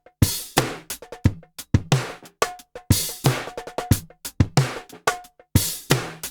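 Music: a drum beat between sung lines, with steady repeated kick and snare hits and no vocals.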